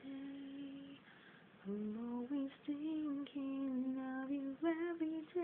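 A woman singing a slow love song without accompaniment, holding long notes and sliding between pitches, with a short breath pause about a second in.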